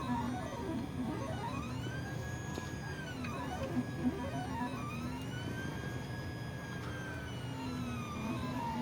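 3D printer's stepper motors whining as the print head moves while laying down a solid layer of filament, the pitch rising and falling in long sweeps as the head speeds up and slows down on each pass, over a steady low hum. Two short clicks about four seconds in.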